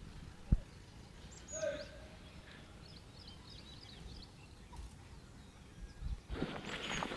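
Faint bird calls and a run of small high chirps in open countryside, with a single thump about half a second in. A louder rustling noise starts near the end.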